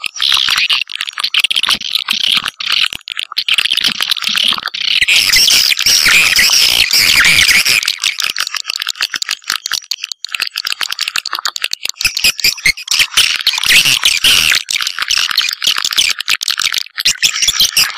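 Swiftlet lure call: a dense, continuous chorus of rapid high twittering and chittering, with no break, played to call swiftlets in to a nesting house. It grows louder and higher from about five to eight seconds in, and again from about twelve to seventeen seconds.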